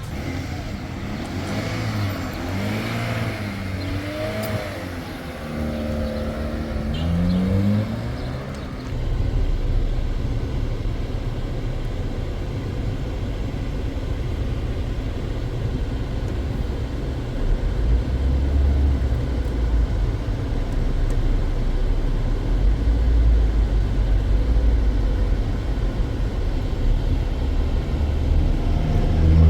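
A motor vehicle's engine running. Its pitch rises and falls over the first several seconds, then it settles into a steady low rumble, as when driving along.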